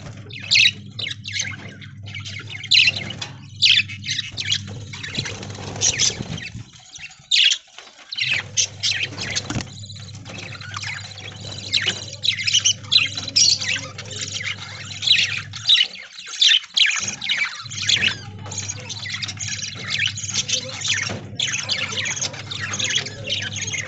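A flock of budgerigars chattering with rapid high chirps and squawks throughout. A low steady hum underneath drops out twice, for a second or two each time.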